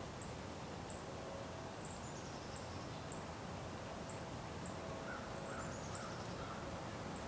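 Small birds chirping: short high chirps scattered irregularly, with two quick descending trills, over a steady outdoor background hiss.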